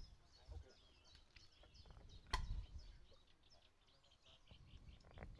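Faint birdsong: small birds chirping repeatedly, with one sharp knock a little over two seconds in.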